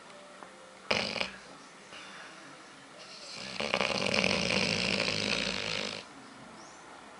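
Chocolate Labrador retriever snoring loudly in her sleep: a brief loud snore about a second in, then a longer one lasting nearly three seconds.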